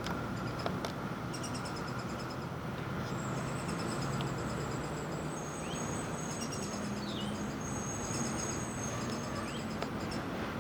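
Small birds calling outdoors: repeated rapid high trills and a few short rising chirps, over a steady background rumble.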